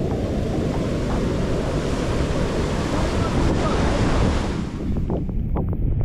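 Rushing floodwater from the dam's open spillway gates, a loud steady hiss, with wind buffeting the microphone underneath; the rushing hiss falls away about five seconds in, leaving the wind rumble.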